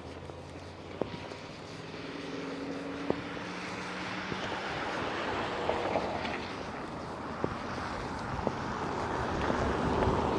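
Vehicle noise: an engine hum that fades after a few seconds, then a rushing noise that builds steadily louder toward the end, with a few scattered sharp clicks.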